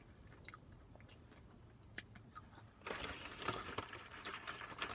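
A person chewing french fries close to the microphone: quiet at first with a few small mouth clicks, then steadier, louder chewing from about three seconds in.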